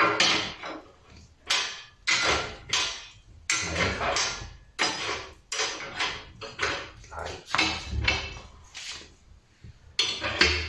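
A wood-burning fireplace stove's metal fittings being worked while the draft is opened: a long series of metallic clanks and scrapes, about two a second.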